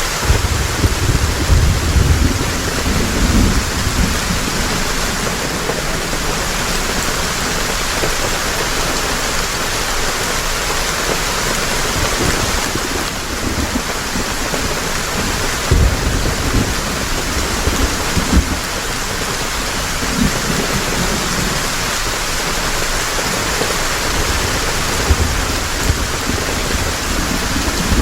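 Heavy rain falling steadily, with low rumbles of thunder swelling several times: over the first few seconds, around the middle and near the end.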